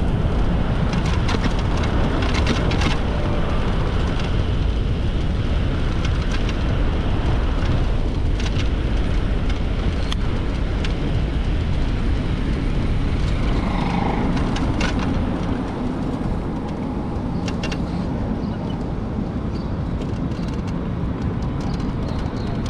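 Wind buffeting the microphone and street traffic noise while riding an electric moped, a steady low rumble with scattered small clicks and rattles.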